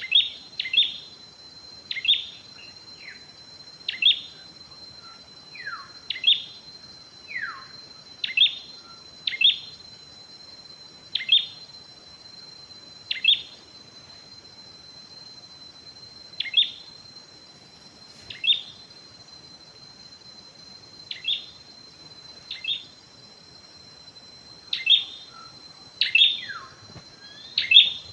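Wild forest birds calling, a bird repeating short, sharp downward notes every second or two, often in pairs, with a few longer falling whistles mixed in. A steady high insect drone runs underneath.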